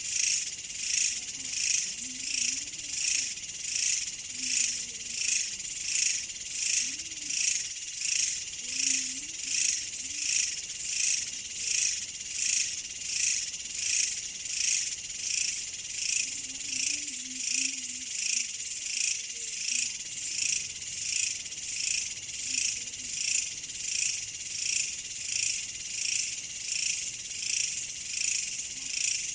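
A chorus of insects chirping in even pulses, about one pulse a second, with faint low wavering calls breaking in a few times in the first twenty seconds.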